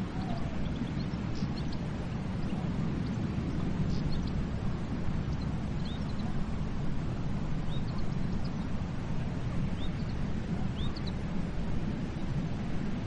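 Steady sea surf with a low, even rumble, with many short, high bird chirps scattered over it.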